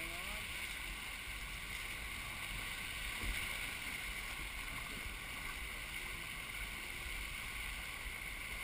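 Water rushing along the hull of a Melges 24 sailboat under way in a puff of wind, with wind buffeting the microphone. One short knock about three seconds in.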